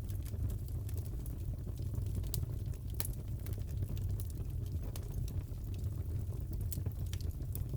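Crackling fireplace: a steady low rumble of the flames with irregular sharp pops and crackles, one louder pop about three seconds in.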